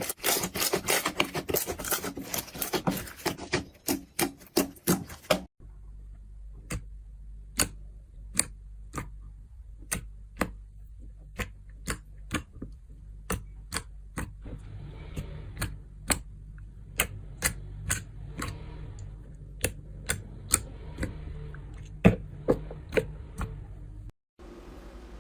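Slime being pressed and stretched by hand, giving crisp clicking pops: a rapid run of clicks for the first five seconds or so, then single pops about one or two a second over a low steady hum.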